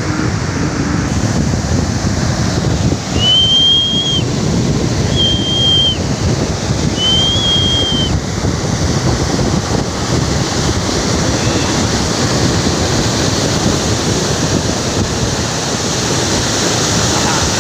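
Waterfall: a loud, steady rush of falling water, with wind buffeting the microphone. Three short high whistles sound a few seconds in, about two seconds apart.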